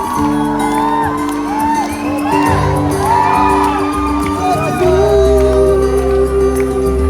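Live rock band playing between sung lines, amplified and loud: held chords and a bass line under a bending melody, with whoops from the crowd.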